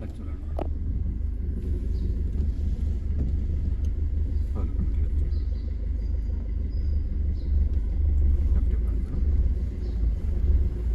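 A car running, a low steady rumble with a few faint ticks.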